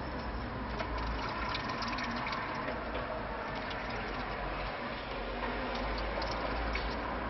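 A canary bathing, flicking and splashing water in quick small splashes, irregularly, over a steady low background hum.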